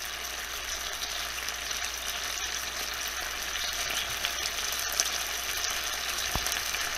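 Hamburger steak patties sizzling in oil and sauce in a frying pan: a steady frying hiss with scattered small pops.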